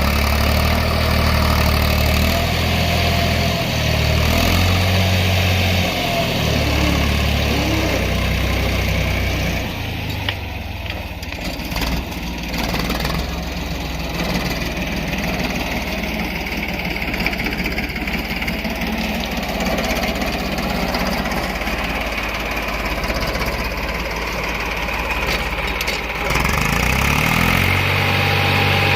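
Tractor diesel engine running a mounted loader, its pitch stepping up and down in the first ten seconds. It goes lower and rougher through the middle, then comes back strongly near the end.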